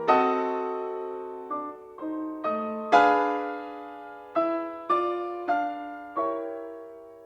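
Background piano music: a slow run of struck chords and single notes, each left ringing to fade before the next.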